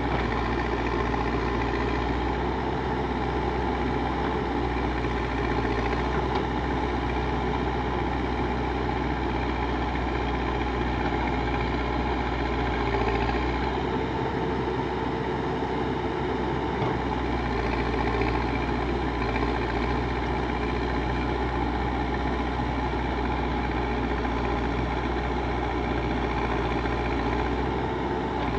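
Backhoe loader's diesel engine running steadily at a low, even speed.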